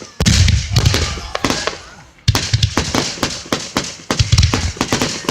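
Aerial fireworks shells bursting, three heavy booms about two seconds apart, each followed by dense crackling that dies away.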